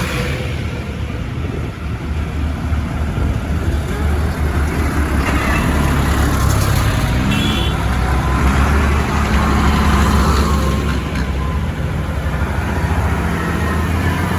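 Diesel engines of modern tractors running, swelling louder in the middle as the rumble builds and then easing slightly.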